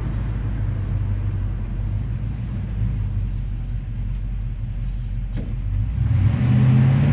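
1958 GMC 100 restomod pickup's engine running while the truck is driven. About six seconds in it gets louder and its tone grows fuller as the truck accelerates.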